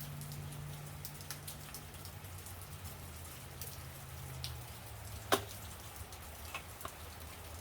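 Rain falling outside, a steady patter with many small scattered drip ticks, over a low steady hum that fades about halfway through. One sharp click about five seconds in stands out as the loudest sound.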